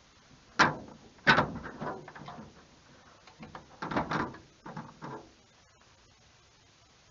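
A series of clunks and knocks from a car's hood and hand tools being handled during hood removal: two loud ones near the start, a few lighter ones, then another cluster around four to five seconds in.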